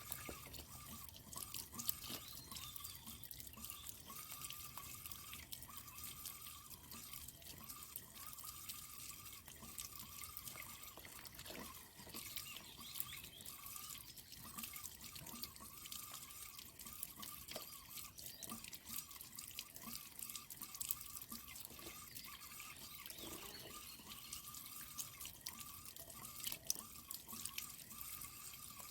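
Water dripping and trickling faintly in a stream-fed water tank and its filter, many small scattered drips.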